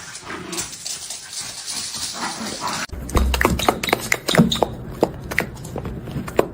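A dog's vocal sounds over a steady hiss. About three seconds in, this gives way abruptly to a rapid run of sharp clicks and knocks over a low rumble.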